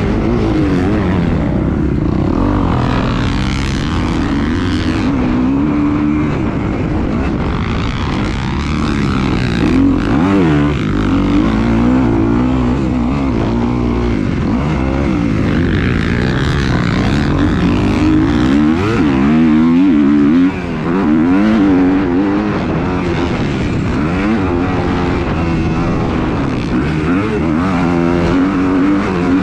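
Several engines revving up and down, their pitches rising and falling over one another throughout, as in racing laps.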